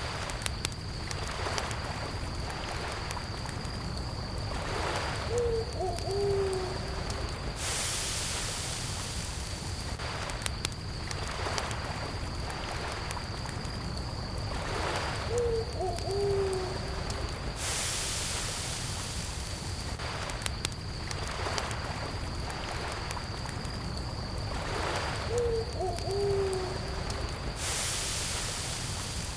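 Campfire crackling over the steady wash of lake water, with a continuous high cricket trill. A low call of a few short notes comes three times, about ten seconds apart.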